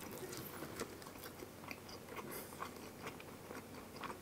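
A person chewing a mouthful of pizza with the lips closed, picked up close by the microphone: faint, with scattered small wet mouth clicks.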